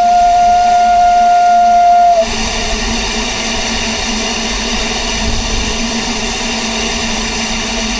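Narrow-gauge steam locomotive whistle sounding one steady, held note for about two seconds, then cutting off. A steady hiss of steam carries on after it.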